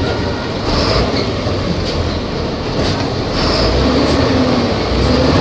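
Volvo B270F bus with its engine running, a low rumble under dense rattle and running noise that grows louder about two-thirds of the way in.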